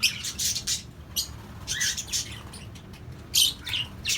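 Small parrots in an aviary calling: a rapid run of shrill, harsh chirps and squawks, the loudest about three and a half seconds in.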